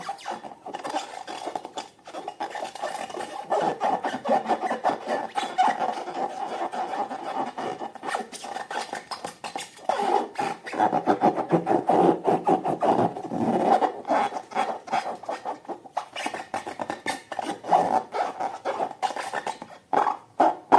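Slime being worked by hand, a continuous run of sticky crackling and rubbing with dense rapid clicks.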